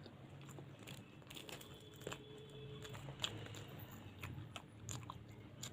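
A person eating luchi with potato curry close to the microphone: soft chewing and tearing of the fried bread with scattered small mouth clicks.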